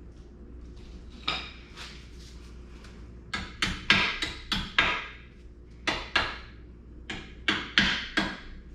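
Hammer striking metal: about a dozen sharp, ringing taps, one and then three quick bursts of three to six.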